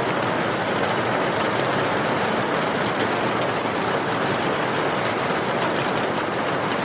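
Steady rain, with faint crackling from a wood fire.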